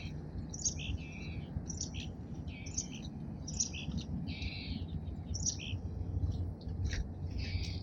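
Small songbirds at a bird feeder chirping, a steady run of short high chirps, several a second, from more than one bird.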